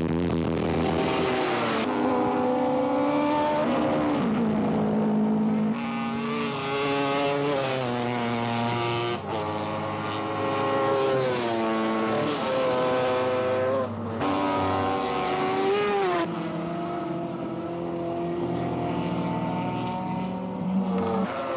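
Several racing motorcycle engines at high revs, their pitch climbing and dropping through gear changes as the bikes accelerate and brake. The sound changes abruptly a few times.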